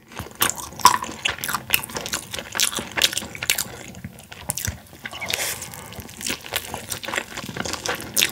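Close-miked chewing and crunching of crispy fried boneless chicken, a rapid, irregular run of short crunches.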